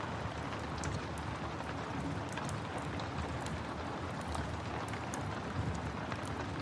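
Steady rain hissing, mixed with a fireplace crackling: many small, sharp pops scattered over the even sound of the rain.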